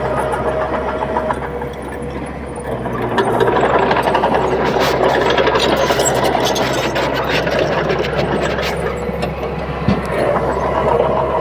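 Komatsu D31P bulldozer's diesel engine running steadily. It gets louder about three and a half seconds in, with a run of metallic clanks and rattles through the middle.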